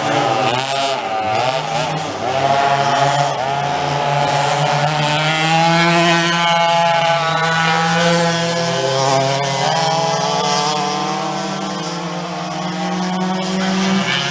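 Vintage dual rear engine racing kart's two-stroke engines running at racing speed, their pitch rising and falling over the first few seconds, then held fairly steady at high revs.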